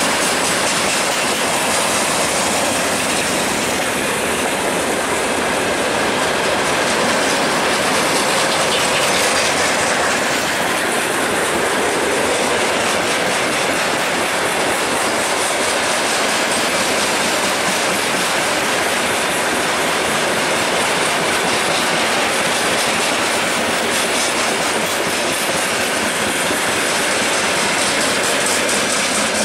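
Freight train wagons, mostly covered hopper cars, rolling past close by: a steady loud rumble of steel wheels on the rails with a rapid clickety-clack throughout.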